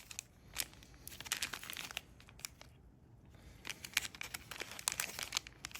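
Plastic packaging crinkling and scattered light clicks as a carburetor rebuild kit is opened and its small parts are handled, with a quieter pause about halfway through.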